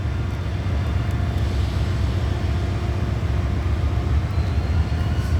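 Diesel locomotive engines running with a steady low rumble and a faint steady hum above it.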